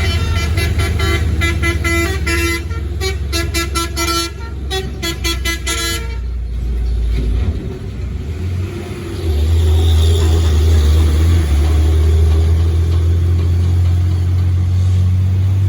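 A vehicle horn toots rapidly and repeatedly in several pitches for about six seconds. Then a heavy truck's engine runs with a deep, loud rumble that swells about nine seconds in.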